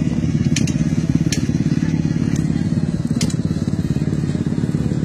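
Many motocross bikes' engines running together on the starting grid, a dense, rapid low rattle, with a few sharp crackles.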